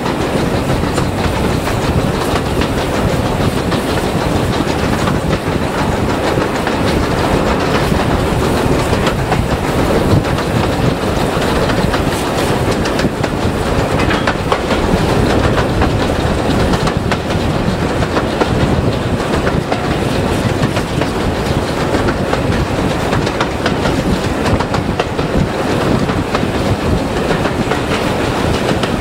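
Passenger train running on the line: a steady rumble of the coaches, with the wheels clattering over the rail joints.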